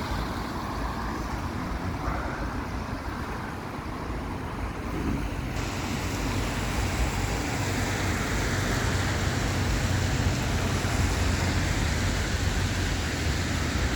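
Road traffic passing on a wet road: a steady hiss of tyres with engine rumble, growing louder over the middle of the stretch.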